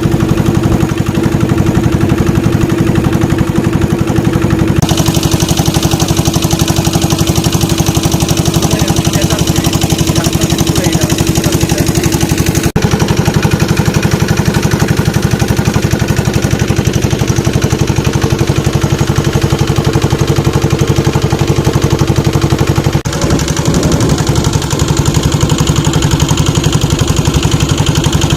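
Engine of a small motorboat running steadily at constant speed with a fast, even pulse. The sound changes abruptly a few times, about 5, 13 and 23 seconds in.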